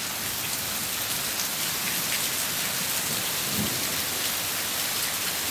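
Heavy rain pouring steadily onto pavement, a brick patio and shrubs, an even, dense hiss.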